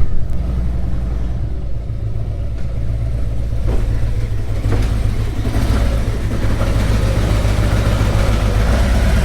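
Truck engine and road noise: a steady low rumble that slowly grows louder, as when the vehicle gathers speed.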